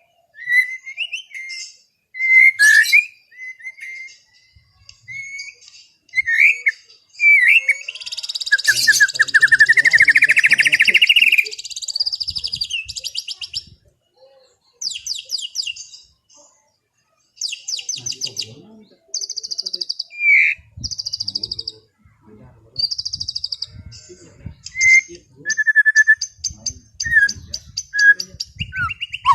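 White-rumped shama (murai batu) singing a varied, relaxed song: short clear whistles, a long rising whistled note, then fast rattling trills and buzzy phrases, separated by brief pauses.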